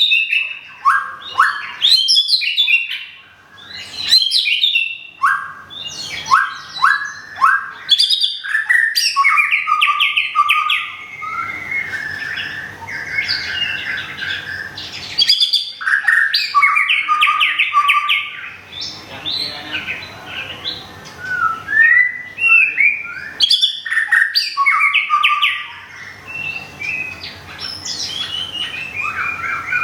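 White-rumped shama singing a run of varied phrases: clear whistled notes mixed with fast rattling trills and chirps, with short pauses between phrases.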